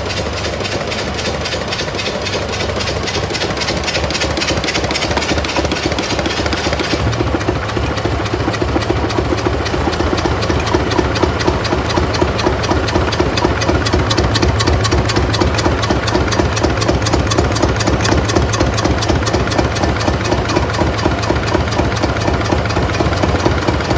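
Tractor engine running, driving a flat belt that turns over the Massey baler's Armstrong Siddeley engine, which has not fired. A steady rhythmic engine beat that becomes more regular and a little louder about seven seconds in.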